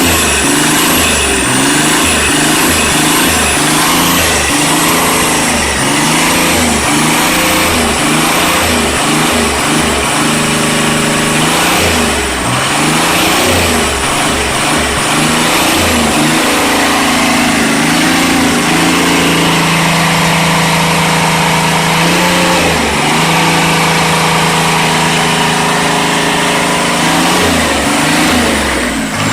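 Nissan SD33T6 3.3-litre turbo-diesel engine being revved over and over, its pitch rising and falling in quick blips, then held at a steadier higher speed for several seconds. A high whine rises and falls with the revs.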